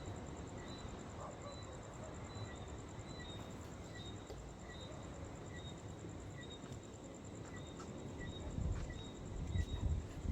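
Outdoor ambience of chirping insects: a steady high pulsing trill and a regular chirp about twice a second. Low wind rumble on the microphone runs underneath and gusts louder near the end.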